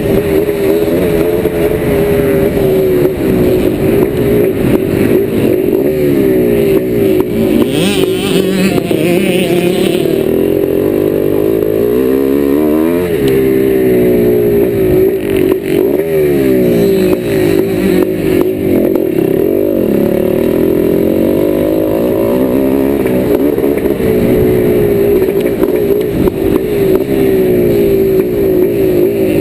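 1990 Yamaha YZ490's single-cylinder two-stroke engine revving hard under load, its pitch climbing and dropping again and again as the throttle is worked through the gears and corners.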